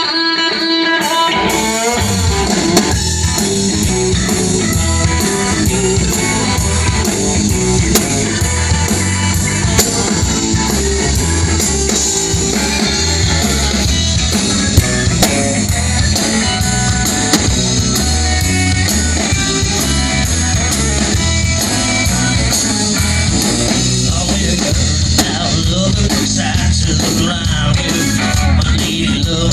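Rock band playing: a guitar alone at first, then drum kit and bass come in about a second and a half in, and the band plays on with a steady beat.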